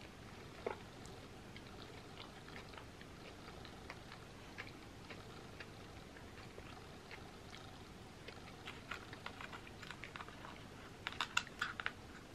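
Faint chewing with small scattered clicks and smacks. Near the end comes a quick run of sharper crackles as flaky pie crust is broken off by hand.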